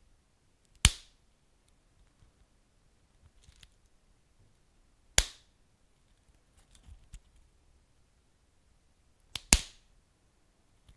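Wood fire crackling: loud, sharp pops about a second in and about five seconds in, then a quick double pop near the end, with faint small crackles between.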